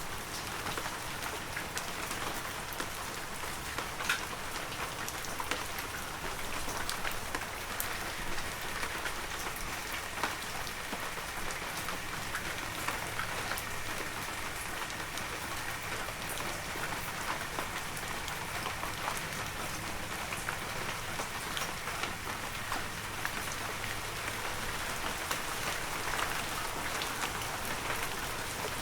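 Heavy rain falling steadily on a forest, an even hiss dense with the ticks of individual drops.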